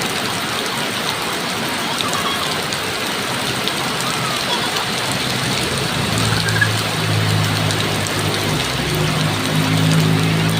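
Heavy rain falling steadily, a dense hiss of drops on the ground. About six seconds in, a low steady engine hum joins under it.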